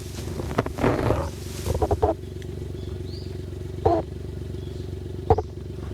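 Suzuki Jimny JA11's engine running steadily at low revs, with several short, sharp louder sounds over it.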